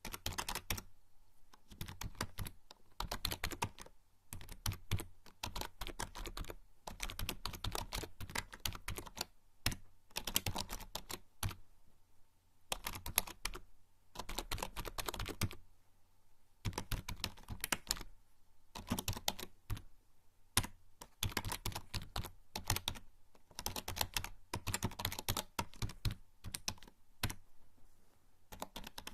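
Typing on a membrane computer keyboard: dense runs of soft key clicks in bursts of a second or two, broken by short pauses.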